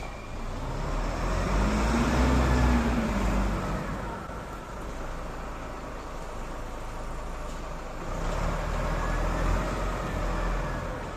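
A heavy vehicle's engine running, its rumble and pitch swelling up and falling back twice.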